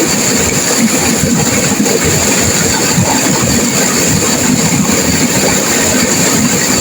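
Turbulent river water rushing and crashing over rapids: a loud, steady wash of noise that holds even throughout.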